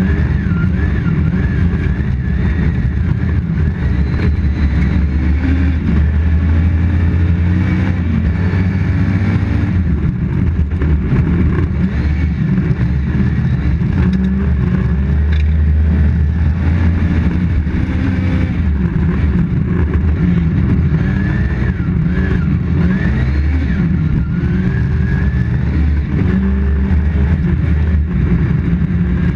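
Toyota Corolla GT rally car's four-cylinder engine heard from inside the cabin, revving up and dropping back again and again as it runs through the gears at full pace. Tyre and road noise from the snowy surface underneath.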